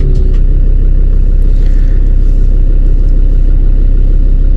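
Land Rover Discovery 2's Td5 five-cylinder turbodiesel engine idling steadily, heard close up.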